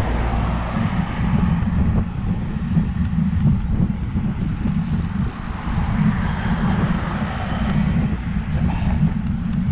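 Wind buffeting the microphone of a moving road bike, a heavy low rumble that rises and falls unevenly.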